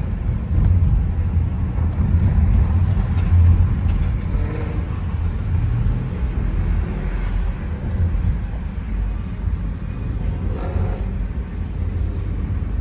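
A car driving, heard from inside the cabin: a steady low engine and road rumble, a little louder between about one and four seconds in.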